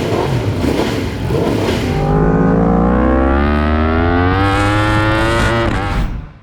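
Racing motorcycle engine under hard acceleration. After a rough, noisy start, its note climbs steadily in pitch for about three and a half seconds, then cuts off abruptly near the end.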